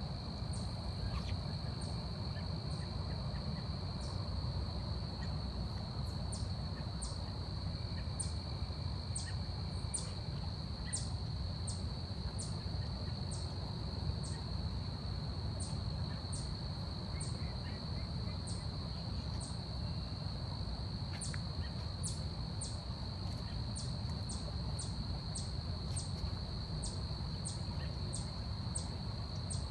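Forest ambience: a steady, unbroken high insect trill, with short sharp high chirps repeating about once or twice a second over a low rumble.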